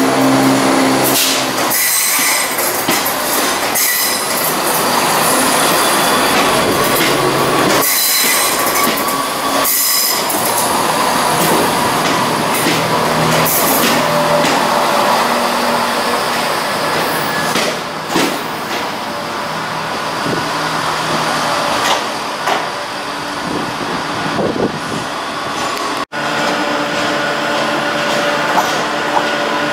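A Class 170 Turbostar diesel multiple unit runs past along the platform, its diesel engines running, with wheels squealing and clattering on the rails. About 26 seconds in, a sudden cut leads to a Class 323 electric unit approaching.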